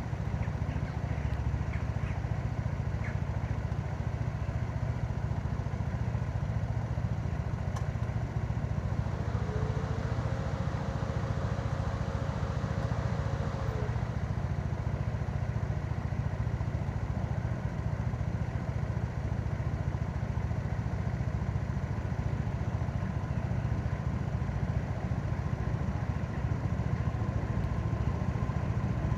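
Yamaha MT-03 motorcycle engine running steadily under way, a low even drone. From about nine to fourteen seconds in, a steady whine and a rise of hiss sit on top of it.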